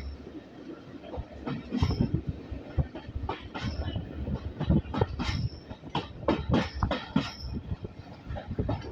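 Old railway carriage of a heritage steam train heard from inside while running, rumbling with irregular clattering knocks from the wheels over the track and brief high wheel squeals.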